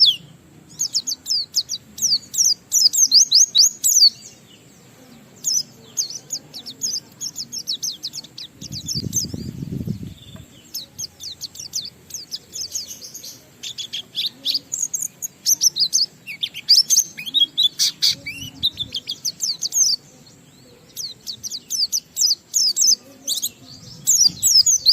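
A white-eye (pleci) singing a long, fast run of high chirps and trills in bursts with short pauses. This is the continuous ngalas song laced with mimicked 'isian' phrases. A brief low rumble comes about nine seconds in.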